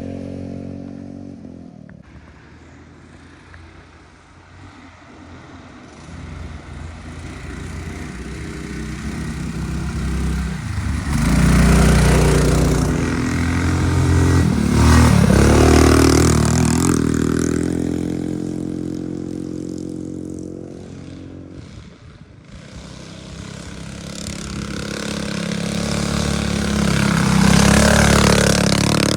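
Minibike engines passing by: one comes up loud about ten seconds in and holds for several seconds as it goes past, then fades away, and another swells up loud near the end.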